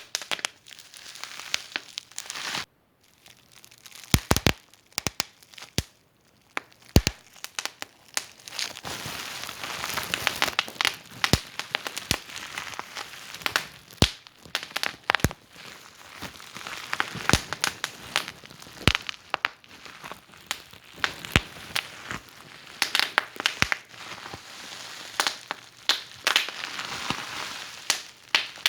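Wood fire in a fireplace crackling, with irregular sharp pops and snaps over a soft hiss. It drops almost to silence briefly about three seconds in and again around six seconds.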